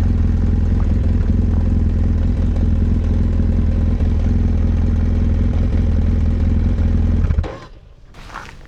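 BMW F 800 GS parallel-twin engine idling at a steady pitch through its original exhaust, then switched off about seven seconds in, cutting out abruptly.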